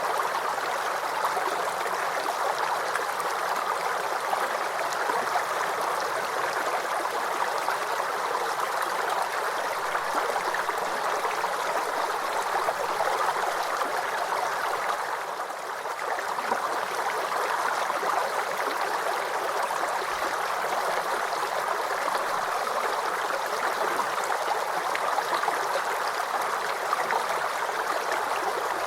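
Forest creek babbling and gurgling over stones in a steady flow, with a brief slight dip in level about halfway through.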